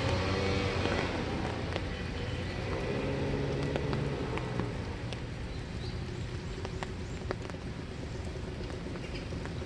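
Steady winter rain with scattered drops tapping close by, while a car's engine hum passes and fades out about five seconds in.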